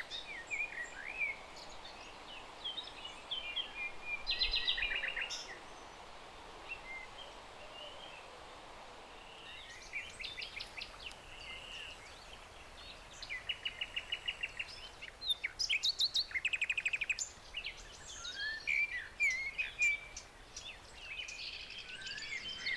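Several songbirds singing: rapid trills and short chirps and whistles come and go, busiest in the second half, over a faint steady hiss.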